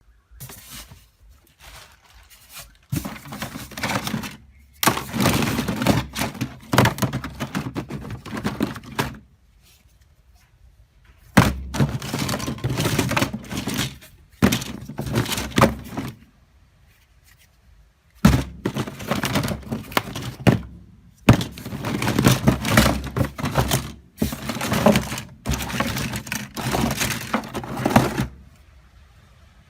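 Thunks and rough crunching, scraping noises from a broken smartphone being handled and worked on, in several runs of a few seconds each that start suddenly, with quiet gaps between.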